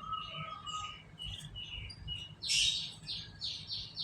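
Canaries chirping, with a held whistled note in the first second, then a loud call about halfway through followed by a quick run of repeated notes, about four a second.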